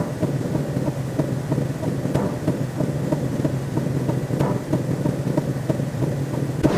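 Synthetic sci-fi sound effect: a steady, dense rumble peppered with fast small clicks, then a sudden hit right at the end.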